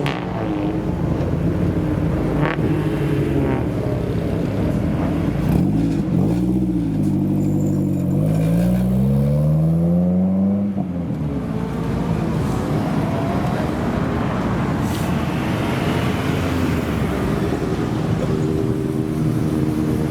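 Modified car's engine and exhaust revving: the engine pitch dips, then climbs steeply from about eight seconds in as it accelerates, and breaks off about eleven seconds in, after which a steady rushing engine noise carries on.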